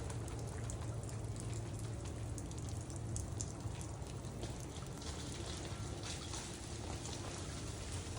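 Freezing rain falling during an ice storm, many small ticks of drops and ice striking surfaces over a steady low hum.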